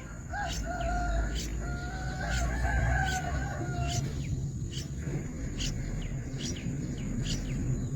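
A rooster crows once, one long call of several parts lasting about three and a half seconds and ending about halfway through. Short high chirps repeat throughout over a steady high-pitched whine.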